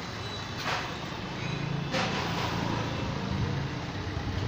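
A motorcycle engine idling, steady and low, growing a little louder partway through, with two brief sharp noises about one and two seconds in.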